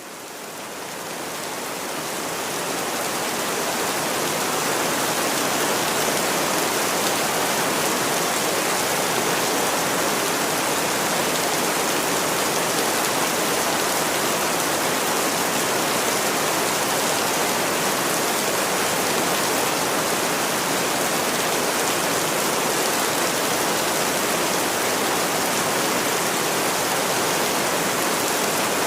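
Steady rain, a dense even hiss of falling drops, fading in over the first few seconds.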